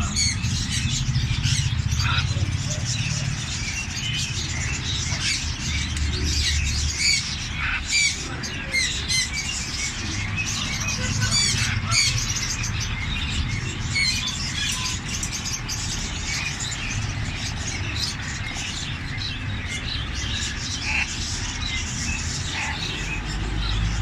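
Caged birds chirping and twittering without pause, a dense mix of many short high calls with a few louder ones, over a steady low rumble.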